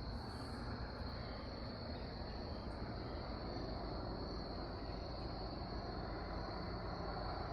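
Steady, high-pitched insect trilling over a faint, even low rumble.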